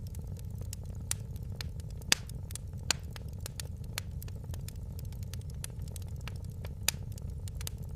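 Fireplace fire burning, with a steady low rumble and frequent sharp crackles and pops. A few louder pops come about two seconds in, near three seconds, and near seven seconds.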